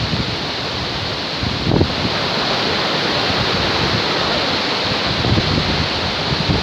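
Loud, steady rush of a waterfall, with wind buffeting the microphone in low gusts and a brief surge about two seconds in.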